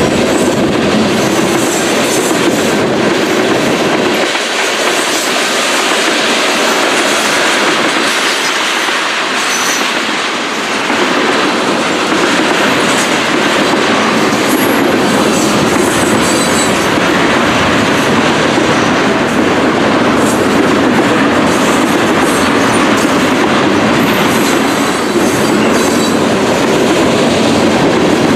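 Cars of a mixed freight train rolling past close by: a steady loud rumble with the clickety-clack of wheels over the rails and occasional wheel squeal.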